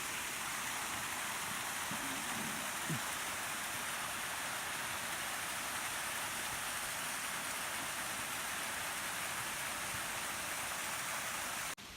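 Waterfall rushing: a steady, even hiss of falling water that cuts off suddenly near the end.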